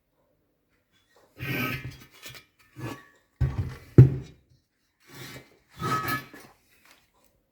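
Handling noise: a few short rubbing and scraping sounds with a sharp knock about four seconds in.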